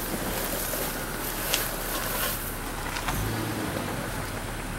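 Off-road 4x4's engine running as the vehicle crawls along a rough dirt trail, heard from inside the cabin, with a few sharp knocks from the vehicle jolting over the ground. The engine note shifts about three seconds in.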